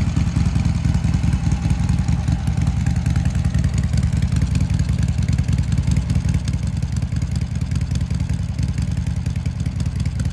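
Harley-Davidson Sportster Seventy-Two XL1200V's 1200 cc air-cooled V-twin idling steadily through an aftermarket Miller exhaust, a deep, rapid, uneven pulsing with no revving.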